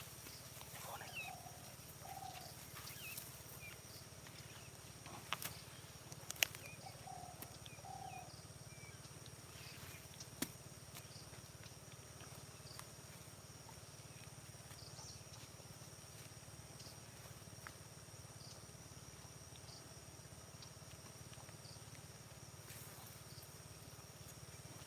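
Faint early-morning field ambience: birds give short chirping calls several times in the first eight seconds over a steady low hum and a steady high whine. A few sharp clicks sound around five, six and ten seconds in.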